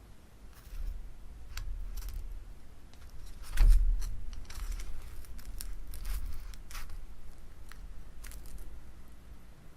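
Light clicks and clatter of things being handled at a table, with one low thump about three and a half seconds in.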